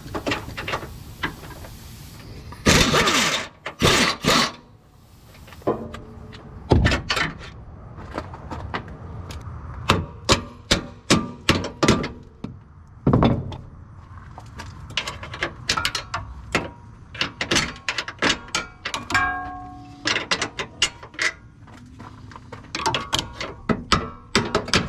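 Tools at work on a car's front suspension, unbolting a bent lower control arm: a run of sharp metal clanks and strikes, some in quick clusters. There is a short, dense burst of noise about three seconds in.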